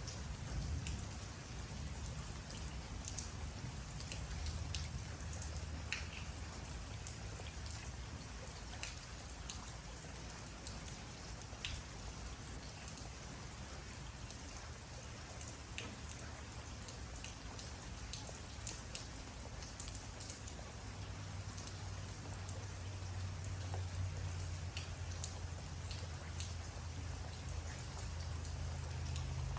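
Steady rain falling, with individual drops ticking sharply close by over an even patter. A low rumble sits underneath and grows louder in the last third.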